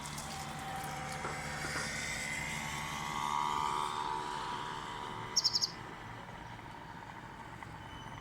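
European goldfinch calling, with a quick run of four short high notes a little after halfway, over a steady low hum.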